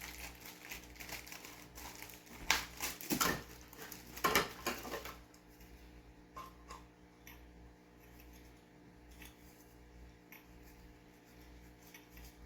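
Handling noise of plastic parts and packaging: a few rustles and light knocks in the first five seconds, then only a faint steady hum.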